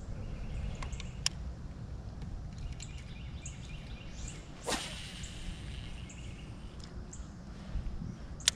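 A fishing rod swished through the air on a cast about halfway through, over a steady low rumble. There are sharp clicks near the start and just before the end.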